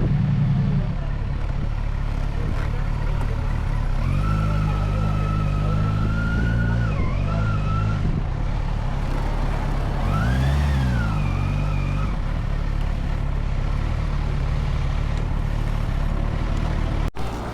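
Motorcycle engine running on the road. Its note steps up about four seconds in, holds, dips, then rises and falls again midway as the bike changes speed, over a steady rush of noise.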